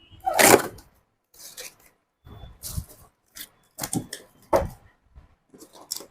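Soundbar packaging being handled during unboxing: a series of separate scrapes and rustles of cardboard and packing material, the loudest about half a second in.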